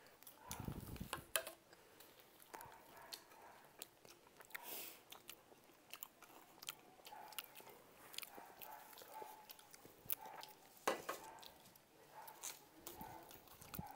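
Faint chewing and crunching of fast food such as French fries, with scattered small clicks and clatter from plates and foil trays being handled.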